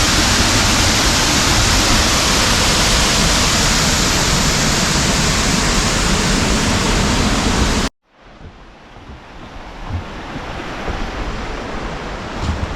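Steady loud rush of a waterfall, cutting off abruptly about eight seconds in. It is followed by a much quieter rushing noise that slowly grows louder.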